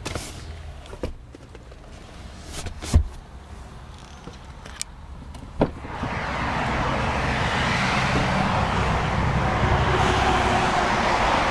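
Road traffic on a nearby highway: a steady rushing noise that swells about halfway through and stays loud. Before it, a few light knocks and one sharp thump.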